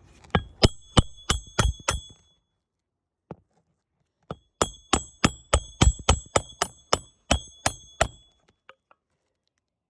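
A hammer driving roofing nails through a replacement 3-tab asphalt shingle, each blow ringing metallically. About six quick blows come first, then after a short pause about a dozen more at roughly three a second.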